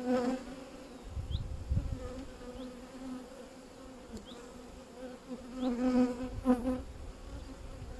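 Honeybees buzzing around an open hive: a steady droning hum that swells louder about six seconds in, with a few low rumbles underneath.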